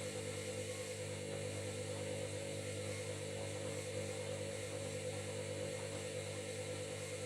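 Washing machine running: a steady whirring hum from its motor and drum, holding one speed.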